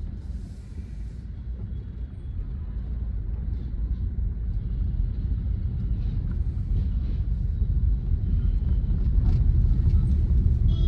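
Car engine and road rumble heard from inside the cabin, a steady low rumble that grows steadily louder after about the first second.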